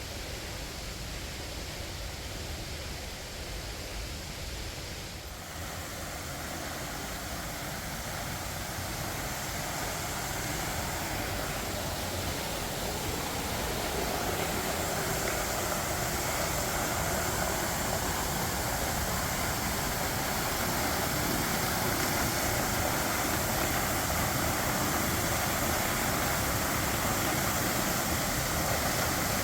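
Waterfall rushing in a good flow, a steady noise of falling water that grows gradually louder as it is approached.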